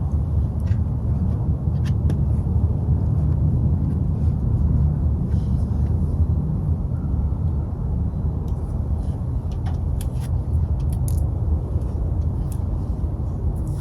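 A steady low rumble, with a few faint clicks and knocks over it.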